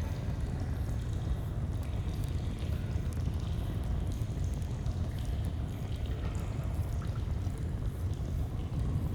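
Flowing stream, a steady rush of water, with faint scattered crackles of a campfire.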